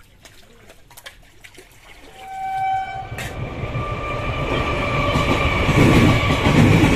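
Suburban electric local train (EMU) giving a short horn blast about two seconds in, then running past, its wheels on the rails growing steadily louder as it nears.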